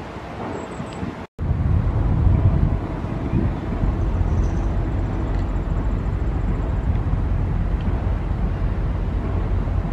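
Steady low rumble of a VIA Rail Canada passenger train running past, with a brief cut in the sound about a second in.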